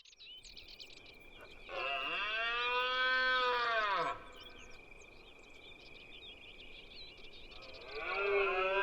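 Red deer stags bellowing in the rut: two long, deep calls that rise and then fall in pitch, the second starting near the end, over a steady high thin tone.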